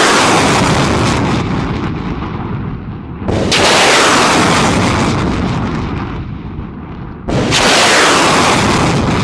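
Multiple rocket launcher firing rockets one after another. Each launch is a sudden blast followed by a roar that fades over about four seconds, with new launches about three and seven seconds in.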